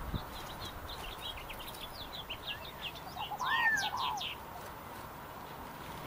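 Wild birds calling: a quick run of short, high chirps, then a louder, lower call with a note that rises and falls a little past the middle.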